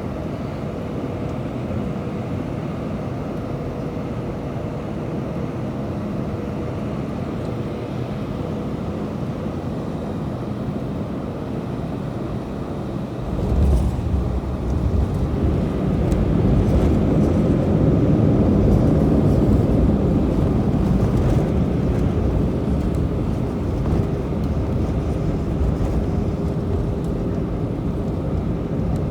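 Airbus A319 cabin noise during landing. A steady engine hum, then about 13 seconds in a sudden low thud and rumble as the wheels touch the runway. The roar then swells for several seconds, typical of reverse thrust and braking on the rollout, and eases off slightly near the end.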